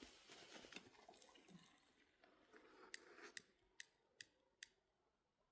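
Faint, sharp clicks at an even pace, about two or three a second, starting about halfway in, after faint soft rustling.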